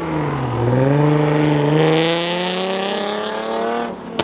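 A car's engine accelerating hard as it drives off. Its pitch dips briefly, then climbs steadily in one long pull for about three seconds before it lets off near the end.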